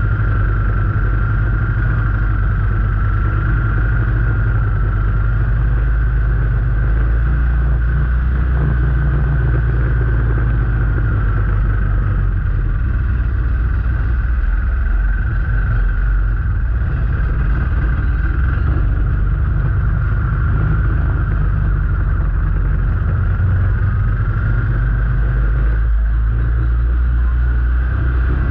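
A vehicle under way with its engine running steadily: a continuous low rumble with a thin, wavering whine above it.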